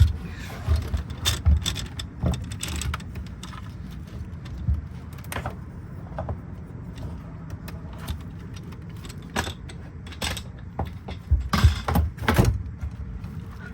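Handling noise of a replacement fuel pump being worked into place by hand: scattered clicks, knocks and light rattles over a steady low rumble, with a cluster of louder knocks near the end.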